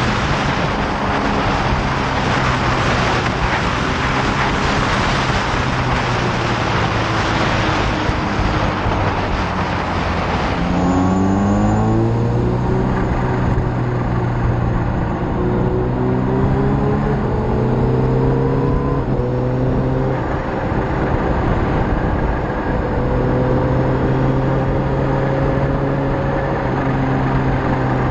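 Motorcycle engine under way, with heavy wind noise over it at first. About ten seconds in the wind eases and the engine note rises and drops in repeated pulls, the bike accelerating and changing up through the gears.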